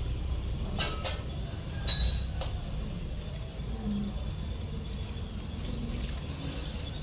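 Metal parts clinking a few times over a steady low rumble. The loudest clink comes about two seconds in and rings briefly.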